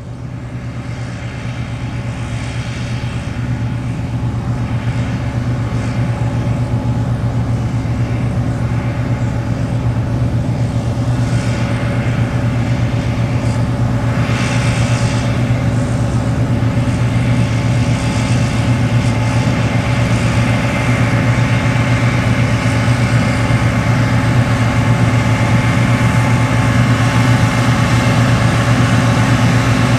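John Deere 8820 Titan II combine harvesting wheat: its diesel engine runs at a steady working speed along with the hum of the threshing machinery. It grows louder over the first few seconds, then holds steady.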